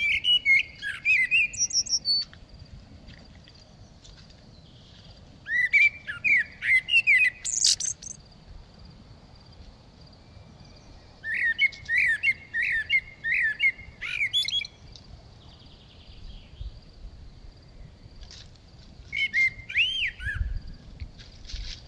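A songbird singing in four short phrases of quick chirping notes, a few seconds apart, over a faint steady high tone and low rumble.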